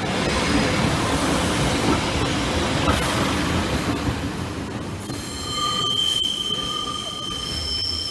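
Class 144 Pacer diesel railbus passing close by, its wheels and engine rumbling. About five seconds in, a high, steady wheel squeal starts and comes and goes as the train moves away.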